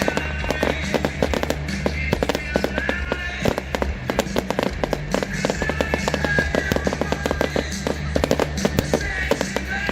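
Fireworks crackling with many rapid, sharp pops over loud music with a steady bass line.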